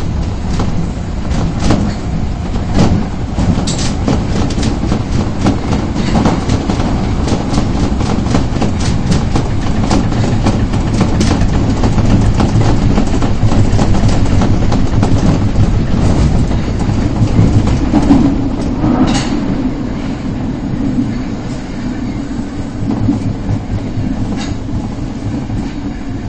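Osaka Metro Tanimachi Line subway train running between stations, heard from inside the car: a steady low rumble with wheels clicking over rail joints and a brief wheel squeal about 19 seconds in. The noise gets quieter near the end as the train slows for the next station.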